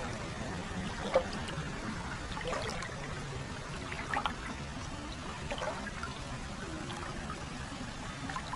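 Hot-spring water trickling into a foot bath: a steady flow with scattered drips and small splashes.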